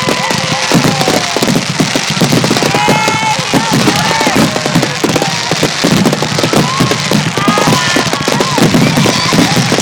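Fireworks finale: a continuous barrage of aerial shells bursting and crackling, with no gaps between reports. Several short whistles glide up and down in pitch through the barrage.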